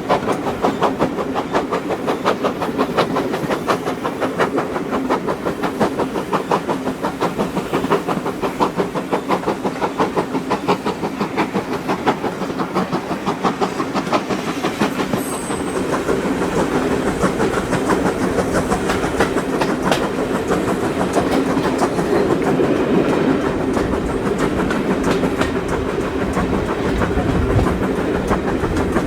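Steam train hauled by 2-6-0 locomotive No. 9351 on the move, a rapid, even beat over a steady rumble, growing a little louder past the midpoint.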